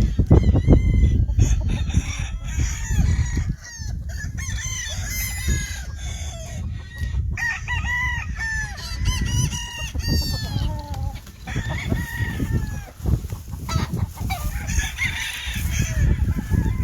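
Several gamefowl roosters crowing over one another, with clucking between the crows, over a constant low rumble.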